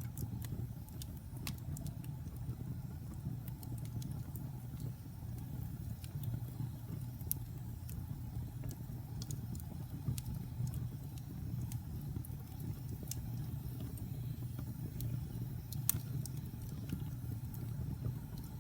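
Wood fire burning in a fireplace: irregular sharp crackles and pops of the burning wood over a steady low rumble of the flames, with one louder pop near the end.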